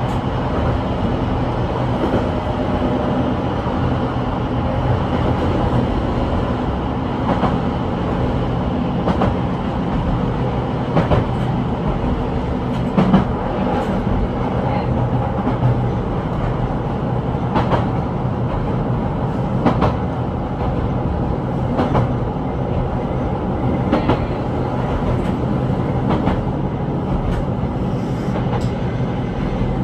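Keihan 800 series electric train running along the track, heard from the driver's cab: a steady running hum with short wheel clacks every second or two.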